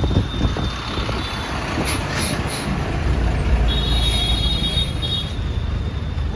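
Moving bus running on the road: steady engine and road rumble, with a thin high whine for about a second and a half past the middle.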